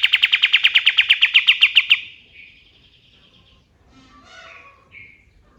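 Pied triller (kapas tembak) singing: a loud, rapid trill of sharp repeated notes, about ten a second and falling slightly in pitch, that stops about two seconds in. A few soft chirps follow.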